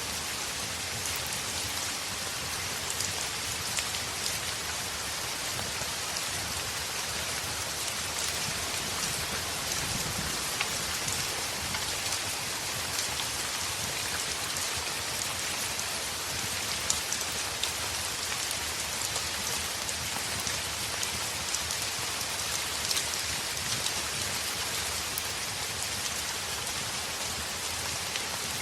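Heavy rain on a window: a steady, dense hiss with scattered sharp ticks of individual drops.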